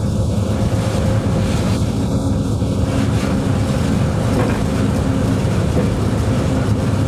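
Locomotive running, heard from inside the cab: a steady low drone with a constant hum, without let-up.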